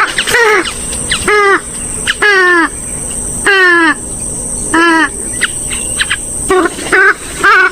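Swamphen and moorhen calls: a series of about ten loud calls, each falling in pitch, some drawn out, with a few short sharp notes between them in the second half.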